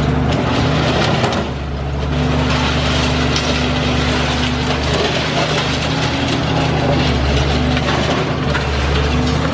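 Caterpillar high-reach demolition excavator's diesel engine running steadily under load, with crunching and crackling of concrete and debris being torn apart. The sound eases briefly about a second and a half in.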